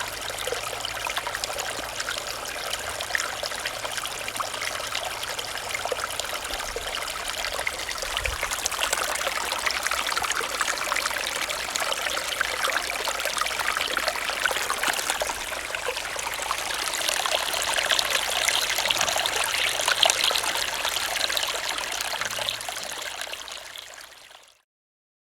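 Running stream: a steady babble and trickle of flowing water, fading out near the end.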